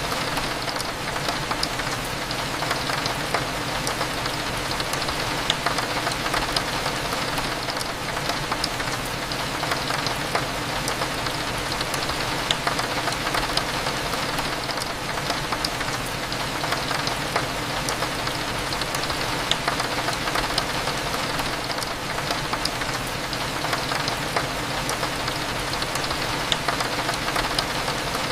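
Steady rain pattering on a window, a dense crackle of drops over a low hum.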